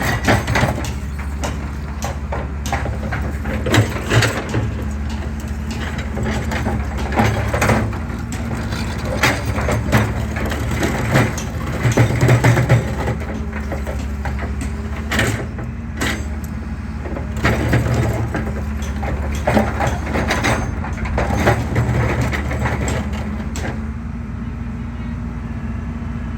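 Excavator's diesel engine running steadily under load while concrete is crushed, with irregular cracking and crunching of breaking concrete. The cracking stops a couple of seconds before the end, leaving only the engine.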